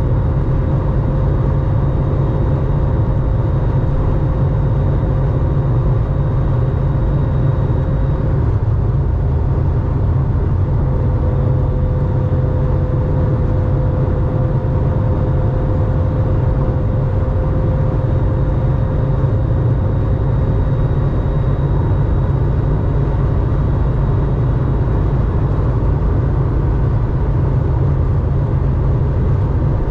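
1987 Porsche 911's air-cooled 3.4-litre flat-six with a 2-in-1-out muffler, droning steadily at an even pitch while the car cruises at a constant speed, with road noise underneath.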